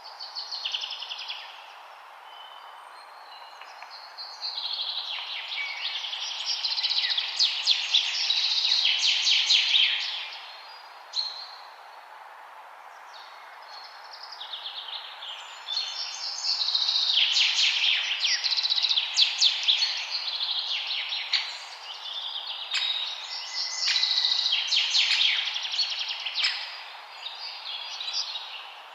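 Songbirds singing in repeated bouts of rapid chirps and trills, over the steady rush of a river.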